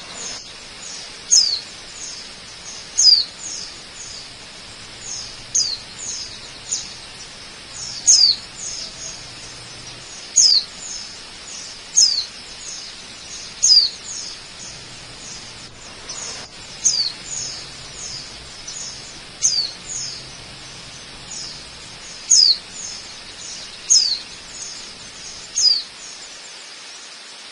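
Steady rush of a waterfall, with a bird repeatedly giving short, high, downward-sliding call notes, about one every one to two seconds.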